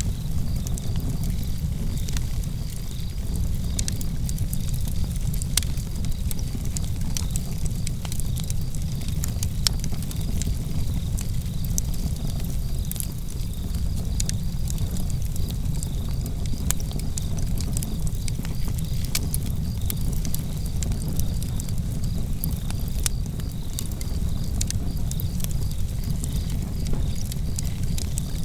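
Outdoor wood campfire burning, with frequent sharp crackles and pops over a steady low rumble. Crickets chirp steadily behind it.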